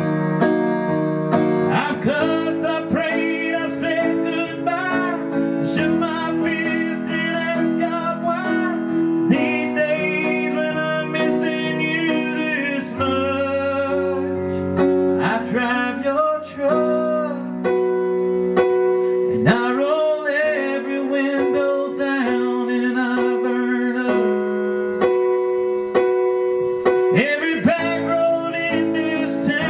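Keyboard playing a slow country ballad on sustained piano chords, with a man singing a wavering, drawn-out melody over it.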